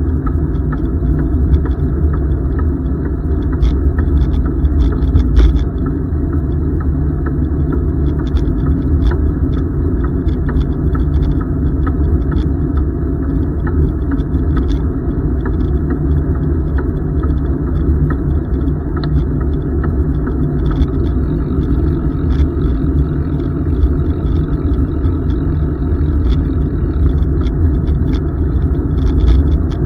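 Steady low rumble of wind buffeting and tyre noise on a camera microphone while riding a bicycle, with scattered light clicks and rattles throughout.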